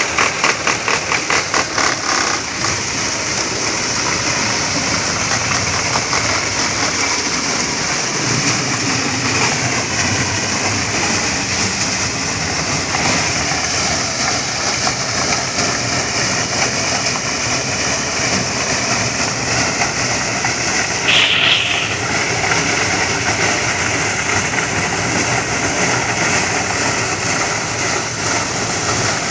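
Engine-driven corn thresher running with a loud, steady mechanical din. It pulses rapidly for the first couple of seconds, and a short higher-pitched burst comes about three-quarters of the way through.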